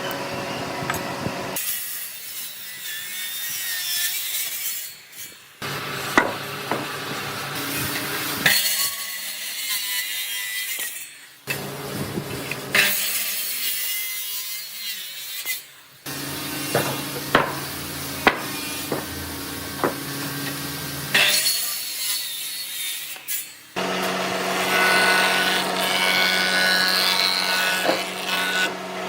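Woodworking on old boards: a string of short cuts of sawing and rasping, rubbing wood, with sharp knocks here and there.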